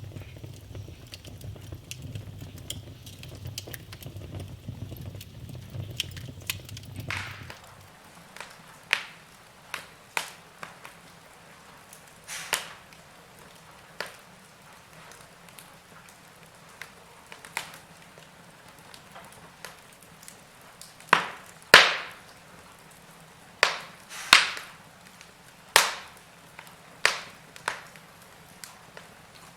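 Wood fire crackling in a fireplace. For the first seven seconds there is a low rumble under dense small crackles; then the rumble stops and sharp, separate pops of burning logs break out every second or two, the loudest ones between about twenty-one and twenty-seven seconds in.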